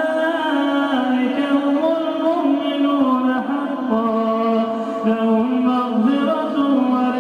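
A man's solo voice chanting Quranic recitation in a melodic tajweed style. He holds long notes that step and waver in pitch.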